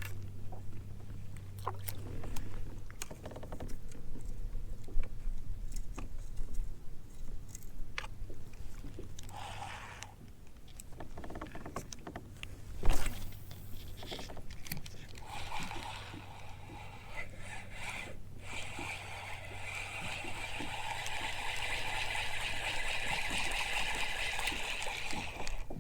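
Sounds of a kayak being worked from on the water: scattered knocks and scrapes against the hull, with one sharp knock about 13 seconds in, then a steady hiss from about 16 seconds on.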